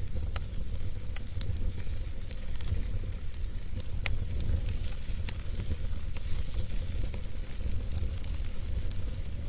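Wood fire burning in a fireplace: a steady low rumble and hiss of the flames with scattered sharp crackles and pops from the burning logs.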